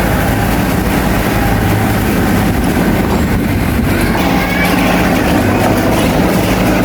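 Bulldozer's diesel engine running steadily under load, with the rattle and clank of its steel crawler tracks.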